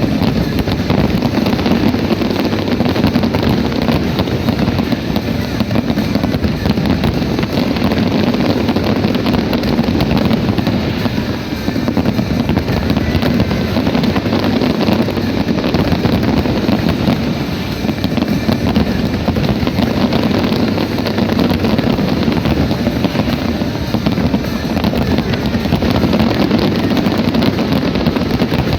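Fireworks barrage: many overlapping bangs and crackles that blend into a steady, continuous rumble.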